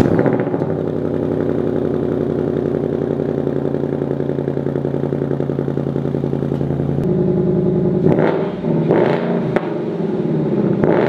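2021 Ford Mustang GT's 5.0 V8 cold-starting on its stock exhaust, catching right at the start and settling into a steady fast cold idle. The idle note shifts about seven seconds in, and a few knocks follow near the end.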